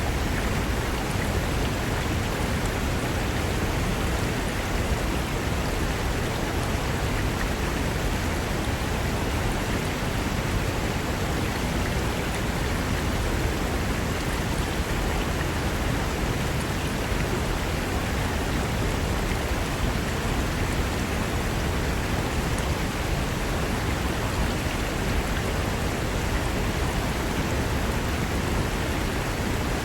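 Fast mountain river running over rocks: a steady, even rush of water that never changes.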